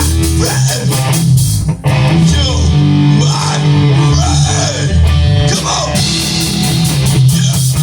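Rock band playing an instrumental passage: electric guitar with string bends over bass guitar and drums. There is a brief break about two seconds in, and the cymbals thin out in the middle before coming back.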